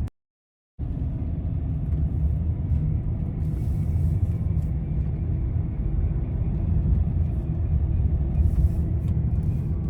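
A moment of dead silence, then a steady low rumble of a moving vehicle's road and wind noise.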